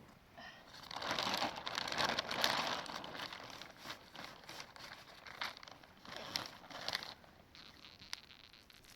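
Plastic sheeting crinkling and rustling as it is handled, with many small crackles, loudest in the first few seconds and dying down near the end.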